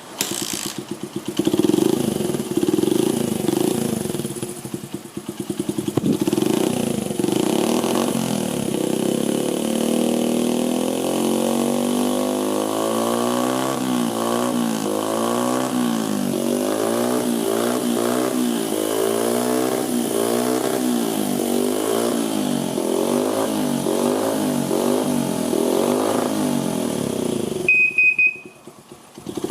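Honda XR50 Motard's small single-cylinder four-stroke engine, breathing through an aftermarket up-swept muffler, catching and revving unevenly for a few seconds, then idling with its pitch wavering up and down about once a second. The sound cuts off abruptly near the end.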